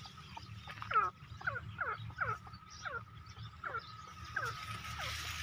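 Bird calls: short notes that slide steeply downward, repeated about twice a second, over a steady high-pitched tone.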